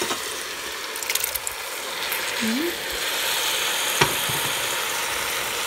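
Ground beef and onions sizzling in the stainless inner pot of an electric pressure cooker on its sauté setting as diced tomatoes go in. The sizzle is a steady hiss, a little louder from about three seconds in, with one sharp knock about four seconds in.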